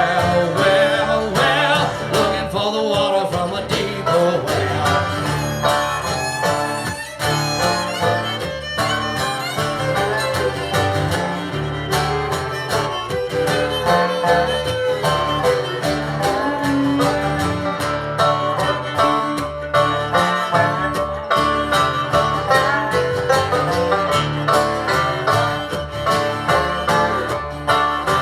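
Live country-bluegrass band playing an instrumental break with no singing, on guitar and banjo with a bowed string instrument over a steady beat.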